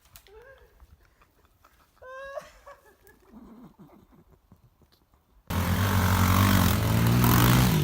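Quiet at first, with a brief high squeak about two seconds in. Then, a little after five seconds, a pit bike's small single-cylinder engine cuts in suddenly and loudly, running at steady revs.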